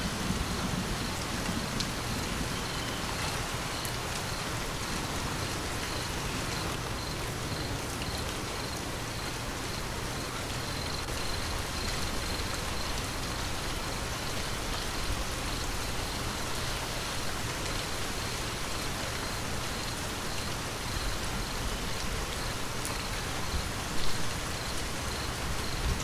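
Steady rain falling, an even hiss of drops on surfaces. The tail of a thunder rumble dies away in the first second, and there is one brief louder thump near the end.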